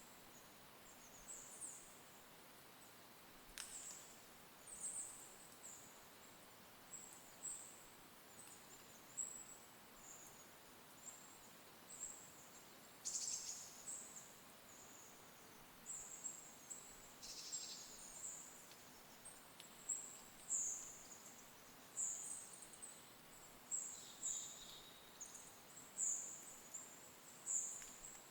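A small bird giving short, thin, high-pitched calls about once a second, growing louder toward the end, with a few sharper calls among them, over faint steady outdoor hiss.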